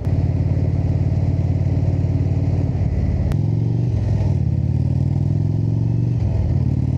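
Indian motorcycle's V-twin engine running under way, its pitch changing in steps as engine speed shifts about three and four seconds in and again near six seconds.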